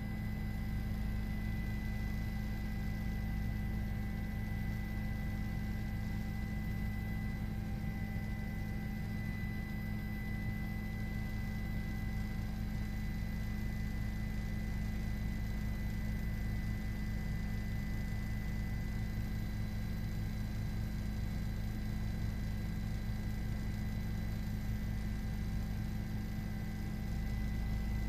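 Steady drone of a news helicopter's cabin heard through the reporter's open microphone: a constant low rumble with several steady tones above it that does not change.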